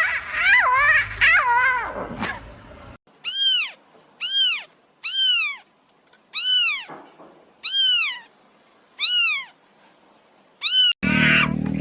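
A cat yowling with a wavering pitch, then, after an abrupt cut, seven short meows, each rising and falling in pitch, spaced about a second apart. A different, noisier sound cuts in near the end.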